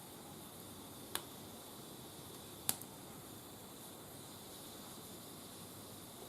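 Wood fire burning, giving two sharp pops, one about a second in and a louder one a little later, over a steady low hiss.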